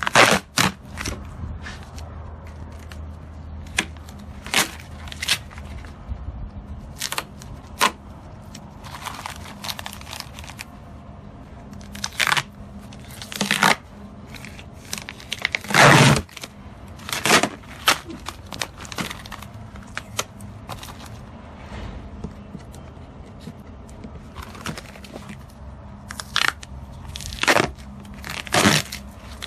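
Plastic wrapping being torn and pulled off a boat: a string of irregular sharp rips and crackles, the loudest about halfway through.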